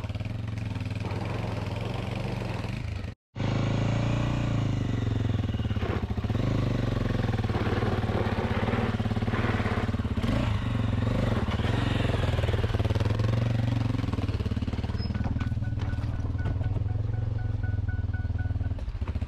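Honda XR600R's single-cylinder four-stroke engine running and revving up and down under load, with a brief cut-out about three seconds in.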